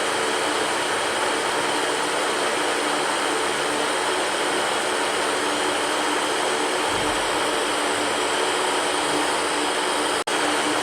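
Electric fan running steadily, a constant rush of air with a faint motor hum underneath. It cuts out for a split second near the end and resumes.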